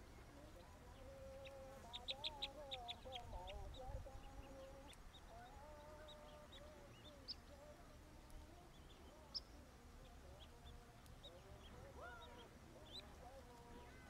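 Faint bird calls: a quick run of high chips about two seconds in, then scattered single high notes, over lower wavering calls throughout.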